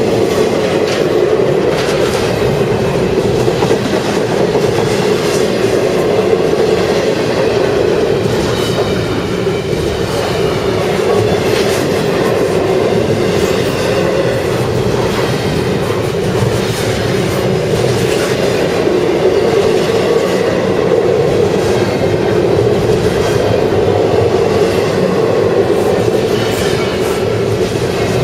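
CSX intermodal freight train's cars rolling past at steady speed: continuous wheel-on-rail rumble with a quick, regular clicking of wheels over rail joints.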